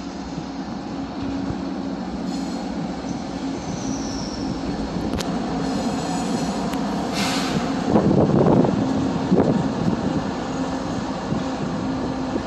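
CPKC train rolling past: a steady rumble of rail cars under a low hum, with a brief high wheel squeal about four seconds in. About seven seconds in comes a short loud rush of noise, then a heavier rumble for a couple of seconds.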